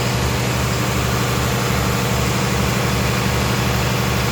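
A steady, unchanging mechanical drone of machinery running at constant speed, like an engine idling, with a low hum.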